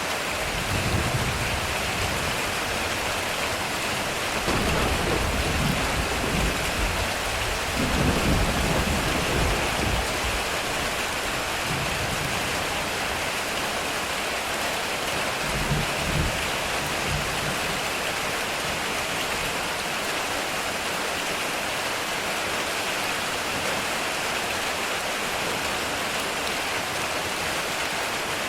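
Heavy rain falling steadily on a metal roof, with rolls of thunder: a short one about a second in, a longer rumble from about four to ten seconds in that is loudest near eight seconds, and a brief one around sixteen seconds.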